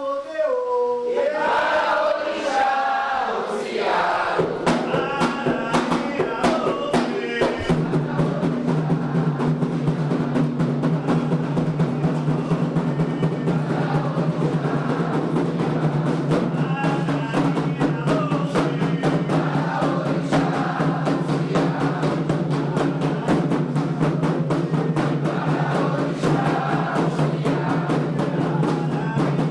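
Candomblé chant for Xangô sung by a group, with atabaque hand drums playing a fast, dense rhythm that comes in about four seconds in. A steady low hum joins under the music a few seconds later.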